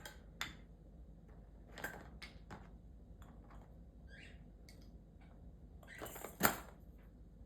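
Scattered light clicks and taps of a galah cockatoo playing with its toys, with a sharper knock about six and a half seconds in.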